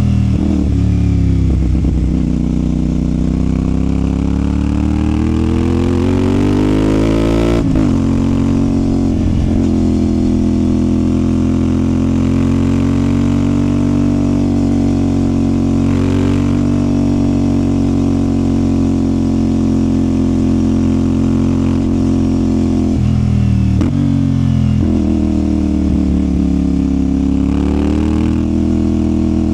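CFMOTO 450SR parallel-twin engine pulling hard, its pitch climbing for several seconds before a sudden drop at a gear change about eight seconds in. It then holds a fairly steady high pitch, dips briefly near the three-quarter mark, and climbs again near the end.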